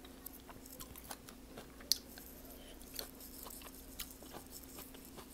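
Close-up chewing of a mouthful of Burmese tea leaf salad with crunchy lima beans and peanuts: faint, scattered small crunches and mouth clicks, the sharpest about two seconds in.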